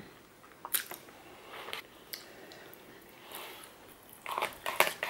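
Close-miked chewing of chow mein noodles with crunchy cabbage bits, with scattered wet mouth clicks. Near the end comes a quick run of clicks and scrapes as a metal fork digs into the aluminium foil takeaway tray.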